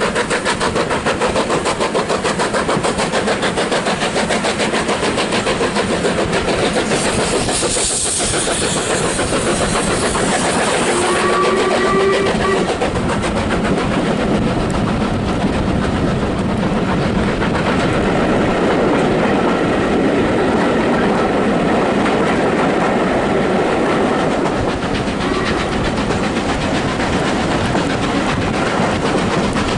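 Train running along the track, a steady loud rumble with rail clatter. A burst of hiss comes about eight seconds in, and a short squeal about four seconds after that.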